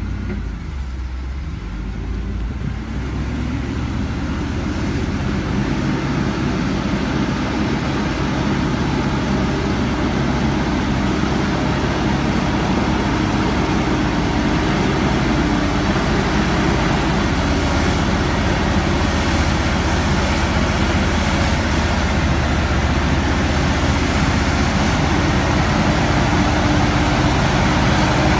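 Heavy truck's diesel engine running under load, its pitch fairly steady, growing gradually louder.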